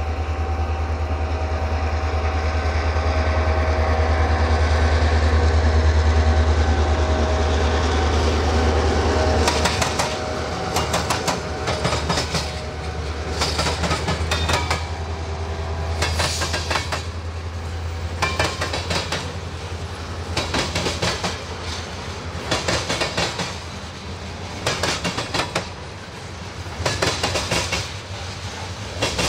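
A freight train passes behind a CSX diesel locomotive. First the locomotive's deep engine drone builds and peaks. Then the wheels of tank cars and covered hoppers clatter over a railroad diamond crossing, a cluster of sharp clicks every second or so as each car's trucks cross.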